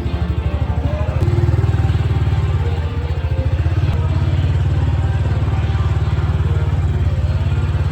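Diesel truck engine running at idle, a steady low rumble with a fast, even pulse.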